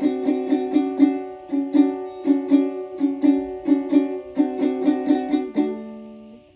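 Music on a plucked string instrument: a quick run of picked notes, about four or five a second, ending on a held chord that fades out near the end.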